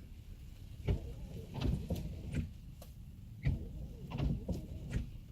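Inside a car cabin in the rain: a low steady rumble with irregular soft thumps and clicks, roughly one to two a second.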